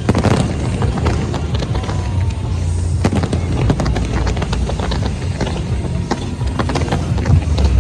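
Fireworks going off: a loud bang at the start, then a rapid run of bangs and crackles over a deep rumble, with music playing along.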